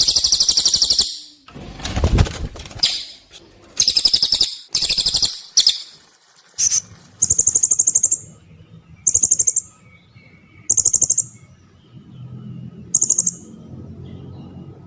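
Small birds giving shrill, rapidly pulsed trilled calls in short bursts, about eight in all with short gaps between them, the later ones thinner and higher. A faint low hum comes in near the end.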